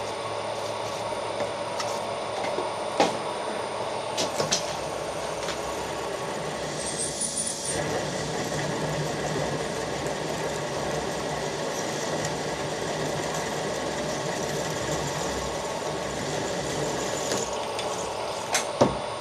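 Machine tool running steadily with a drill bit cutting into hard bronze weld build-up in a cast-iron casting, with a brief high-pitched squeal about seven seconds in and a few sharp clicks. The material is cutting badly, which the machinist suspects is a hard alloy formed where the brass, bronze and cast iron mixed.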